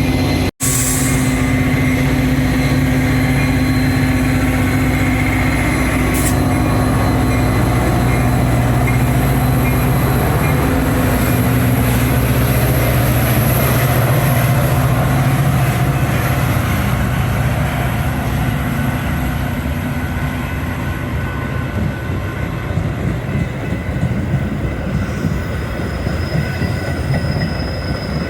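Train running close by: a steady low engine hum through the first half gives way to a rougher, fluctuating rumble of wheels on rail. The sound cuts out briefly less than a second in.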